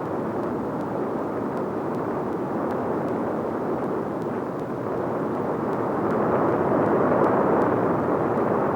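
Steady rushing noise of an erupting Kilauea lava fountain, growing somewhat louder about six seconds in.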